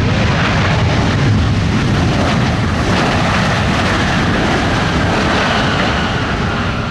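Jet airliner passing close by: loud, heavy engine rumble, with a high engine whine that slowly falls in pitch over the second half as the aircraft moves away.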